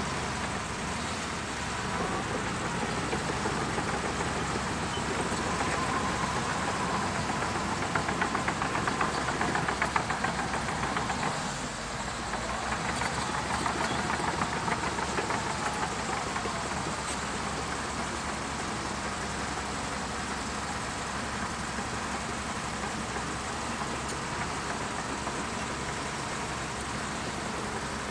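Shantui DH17C2 bulldozer's diesel engine running steadily. For several seconds midway it grows louder, with a fast rattle.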